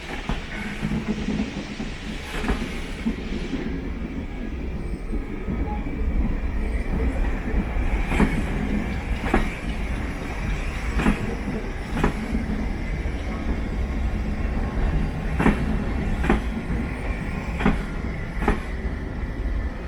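Train moving on rails: a steady low rumble that builds over the first few seconds, with sharp clicks every second or so, some in close pairs, as wheels cross rail joints.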